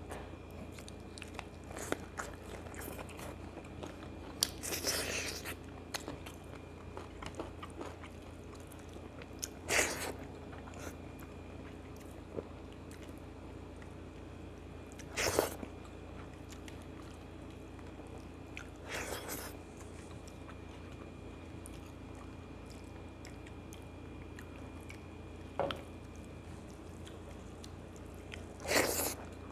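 Close-up eating sounds of a man chewing rice and curry eaten by hand, with about seven short, louder mouth sounds a few seconds apart over a steady low hum.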